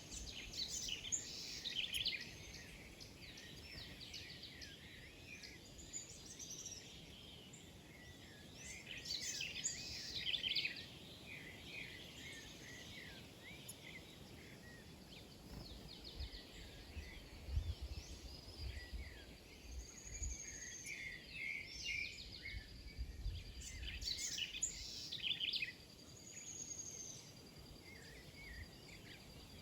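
Many small birds chirping and twittering together in busy bursts, thickest about a second in, around nine to ten seconds, and from about twenty to twenty-five seconds. A few low bumps are heard in the middle stretch.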